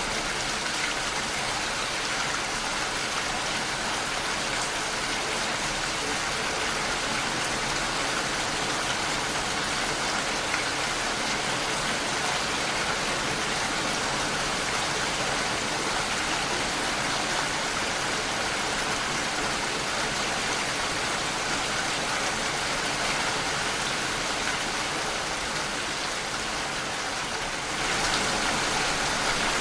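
Steady rain falling against a window pane, a little louder near the end.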